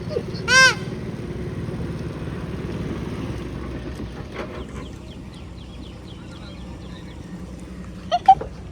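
Boat engine running steadily underneath, with one loud, short honk about half a second in and two quicker honks near the end.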